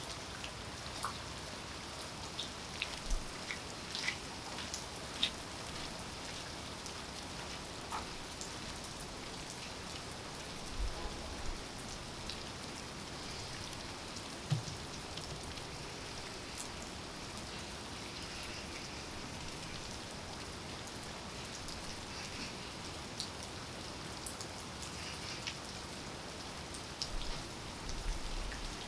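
Steady rain falling, with many scattered drops ticking sharply on nearby surfaces and a few heavier dull thuds.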